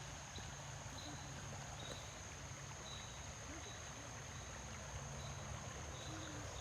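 Insects trilling outdoors: a steady high-pitched buzz with short chirps every second or so, over a low hum.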